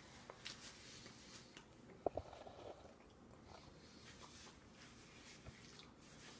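Faint mouth sounds of a toddler eating finger food: soft smacks and clicks of chewing. About two seconds in there is a single sharp knock, the loudest sound.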